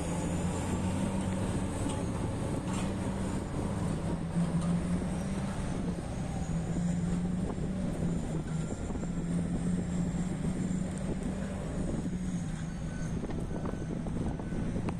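Diesel engine of heavy mining earthmoving equipment running steadily, its engine speed rising and easing a little now and then. Faint short beeps at an even pace join near the end.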